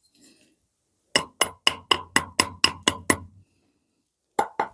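Rapid hammer blows, about four a second in a run of nine, then a pause and two more strikes near the end, each with a short ring.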